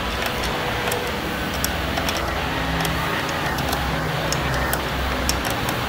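Steady low workshop hum with scattered light clicks and taps at irregular moments, like small metal parts or tools being handled.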